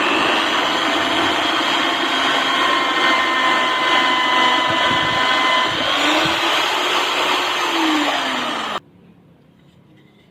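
Electric drill running steadily at speed, with a lower tone that rises and falls in its last few seconds before it stops abruptly about nine seconds in.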